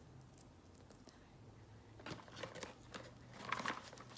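Packaging being handled during an unboxing: after about two seconds of near quiet with a faint hum, a run of light rustles and clicks, loudest about three and a half seconds in.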